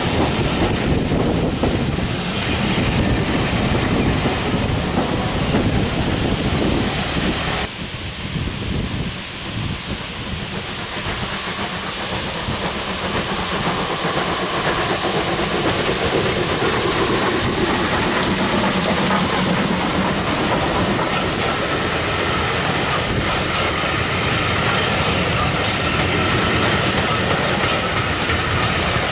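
Passenger coaches of a steam-hauled heritage train rolling past close by, wheels clicking over the rail joints. The sound changes abruptly about eight seconds in. A high hiss then builds and fades, and coaches rumble and click past again.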